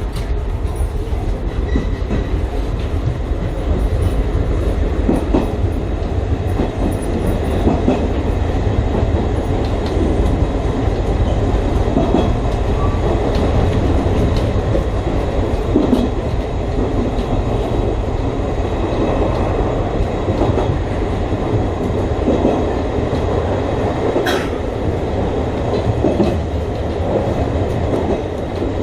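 Chichibu Railway 5000-series electric train running along the line, heard from the front of the train: a steady rumble of wheels on rail with scattered light clicks, and a sharper click about three-quarters of the way through. The wheels are running on newly laid 50 kgN heavy rail, which the uploader says changed the running sound from the old 37 kg rail.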